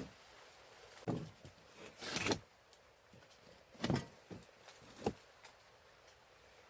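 A few short knocks and scrapes, four or five spaced over several seconds, like things being handled or moved.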